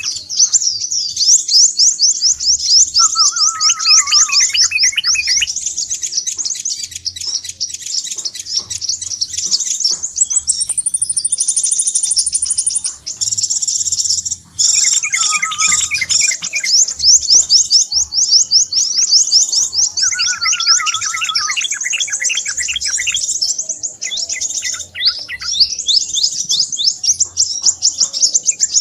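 Crimson sunbirds (sepah raja) chirping busily in a bird-lure recording. The call is a dense, rapid stream of very high chirps, broken now and then by lower, buzzier trills.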